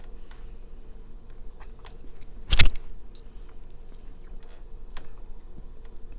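Close-up chewing of a crumbly brownie, with small wet clicks of the mouth. A single loud thump or crunch comes about two and a half seconds in.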